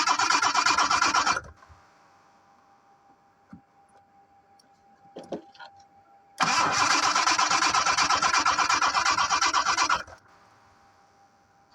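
The 1986 Jaguar XJ6's straight-six engine being cranked by the starter motor in two attempts, with a fast, even pulsing rhythm. The first attempt ends about a second in; the second runs for about three and a half seconds from the middle and cuts off. The engine does not catch. Between the attempts there is a faint steady whine and a few light clicks.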